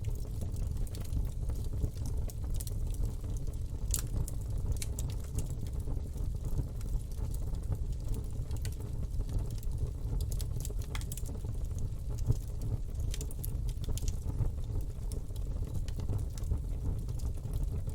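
Campfire burning: a steady low rumble of flames with scattered sharp crackles and pops, one louder pop about twelve seconds in.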